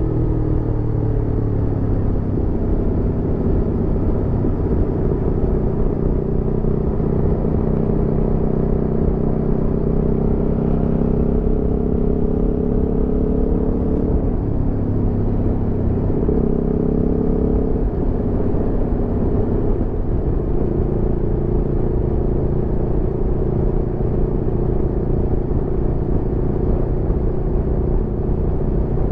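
Aprilia Tuono V4 motorcycle's 65-degree V4 engine running while riding, with road rumble underneath. The engine note falls just after the start, shifts pitch a few times about halfway through, then holds steady.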